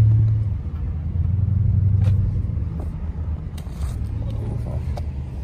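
Lexus car's engine running with a steady low rumble, heard from inside the cabin, swelling briefly about two seconds in.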